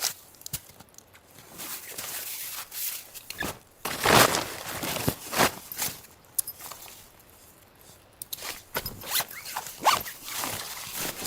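Short, irregular rustling and scraping strokes of gear being handled, the loudest a few seconds in and another cluster near the end.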